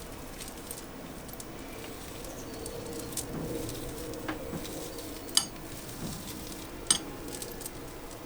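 Quiet kitchen food prep: a faint steady hiss with a few sharp clinks of a knife or utensils, three of them clearer, about three, five and a half and seven seconds in.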